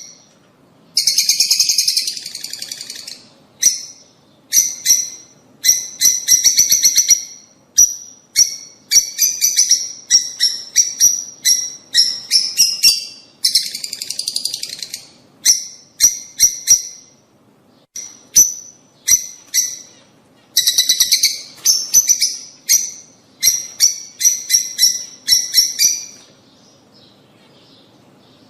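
Lovebirds calling in bursts of rapid, shrill chirping, each burst a second or so long with short gaps between, falling quiet near the end.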